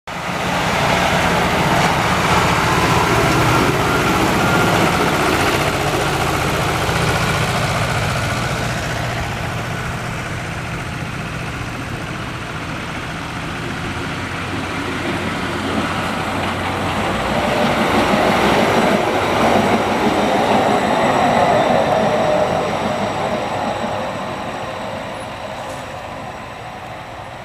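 Hi-rail maintenance-of-way trucks, a water tank truck and a crane truck, driving past one after the other on the railroad track: engine noise and steel wheels running on the rails. The sound is loudest in the first few seconds and again about 18 to 22 seconds in.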